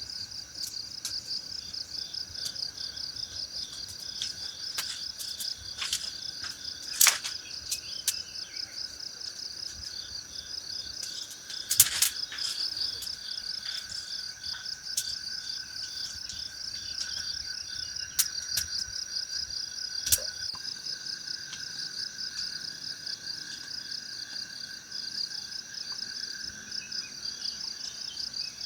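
Insects chirring steadily in a fast, even pulse. A few sharp clicks or cracks break through, the loudest about twelve seconds in.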